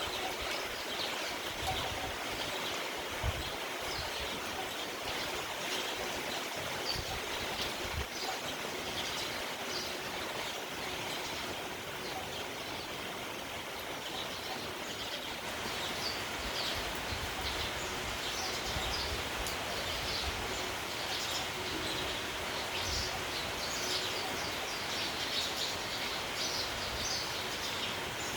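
Steady rain with a flock of sparrows chirping, the chirps growing busier from about halfway through; low gusts of wind rumble now and then.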